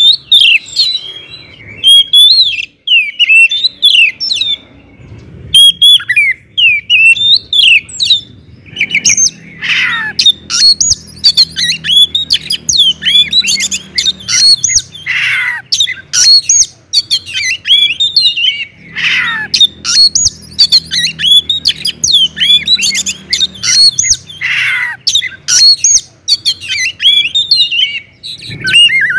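Oriental magpie-robin (kacer) singing loudly: a fast, unbroken run of varied whistled notes and chirps, broken now and then by a few harsh, downward-sweeping rasping notes.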